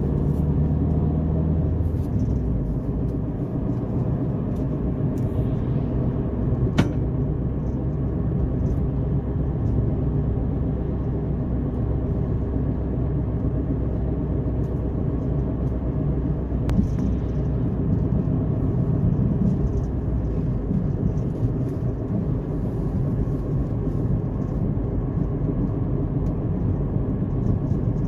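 A car driving, its engine and tyres on the road making a steady low rumble whose pitch shifts a couple of times. A single sharp click sounds about seven seconds in.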